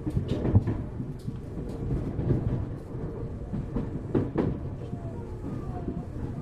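Interior running noise of a Tokyu 1000 series electric train, heard inside motor car DeHa 1313. Steady rumble of wheels on rail, with irregular clicks and knocks, the loudest about half a second and about four seconds in.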